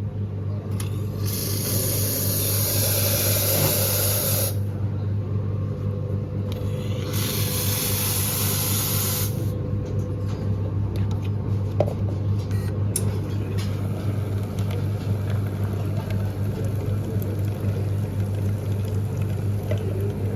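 Espresso machine running with a steady low hum, and steam hissing out in two bursts, the first about three seconds long and the second about two.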